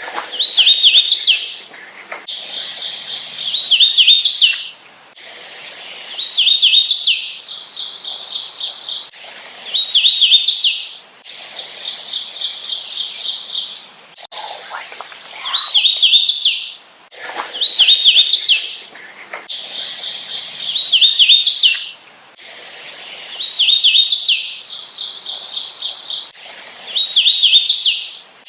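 Hooded warbler singing: a repeated song of quick slurred whistled notes rising to a higher emphatic ending, given about nine times, with runs of rapid, evenly spaced short notes between songs.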